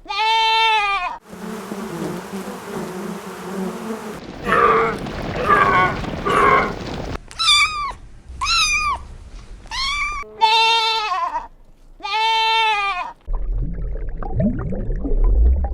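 A string of short farm-animal calls, goat bleats and cat meows, each an arched wavering cry, some low and some high-pitched. A low rumbling stretch follows near the end.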